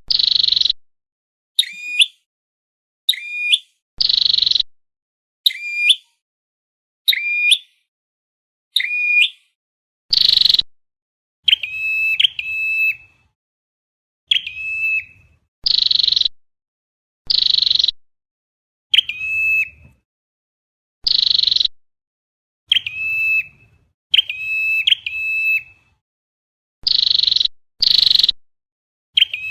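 Flowerpecker calls repeated over and over: short, sharp high notes about one to two a second. Harsh buzzy chips alternate with clicking notes that drop in pitch, the clicking notes in singles or quick runs of two or three.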